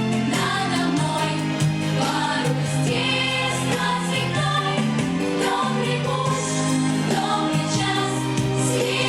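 A children's song, sung voices over an instrumental accompaniment, plays continuously with a steady bass line.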